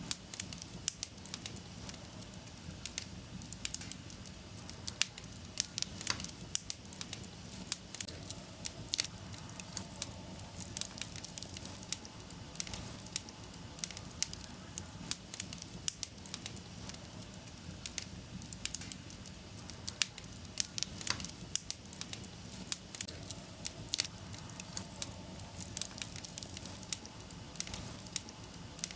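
Wood fire burning in a fireplace, crackling with irregular sharp pops over a steady low rush of flame.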